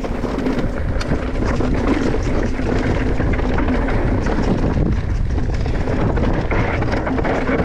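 Mountain bike descending a trail at speed: wind rushing over the microphone, with the tyres rolling over dirt and rock and the bike rattling and knocking.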